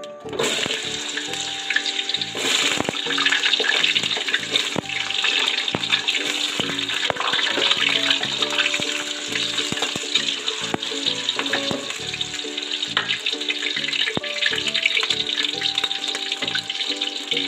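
Potato wedges deep-frying in hot oil in an aluminium wok: a loud, steady sizzle that starts about half a second in as the potatoes go into the oil. Background music plays underneath.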